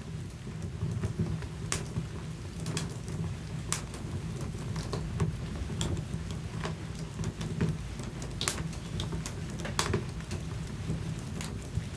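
Wood fire burning in a fireplace: a low steady rumble with irregular sharp crackles and pops, two of them louder near the end.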